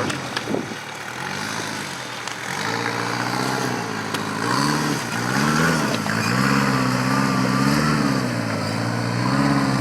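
Rock-crawler buggy's engine revving up and down in a string of repeated blips of the throttle.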